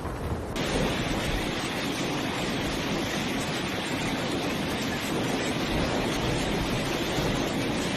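Storm noise: a steady rush of wind and heavy precipitation, with wind buffeting the microphone. The sound changes abruptly about half a second in, at a cut between clips.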